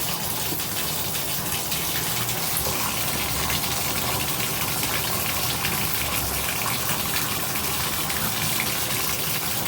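Water running steadily from a Delta shower valve at full flow, an even rush of spray, while the water is tested for hot after the valve's hot-limit stop was turned to maximum.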